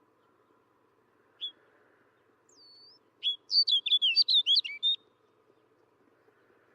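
Snow bunting singing: a single short high note, a brief whistled slur, then a quick warbling phrase of about a dozen high notes lasting under two seconds.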